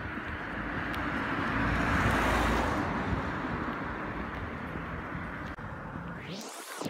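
Outdoor traffic noise, with a vehicle passing that swells to its loudest about two seconds in and then fades. Near the end comes a short whoosh that rises quickly in pitch.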